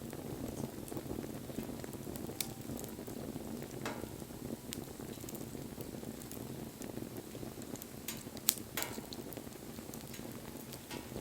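Wood fire burning with a steady low rush and scattered crackles and pops, the sharpest pop about eight and a half seconds in.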